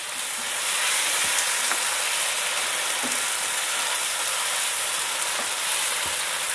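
Chopped onion with garlic-ginger and green chili paste sizzling steadily in hot oil in a non-stick frying pan, stirred with a silicone spatula that knocks lightly against the pan a few times.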